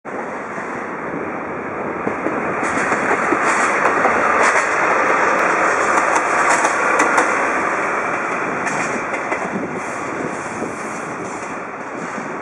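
A train rolling past out of sight, its wheels on the rails swelling to a peak midway and then fading, with a few sharp clacks as the wheels cross rail joints.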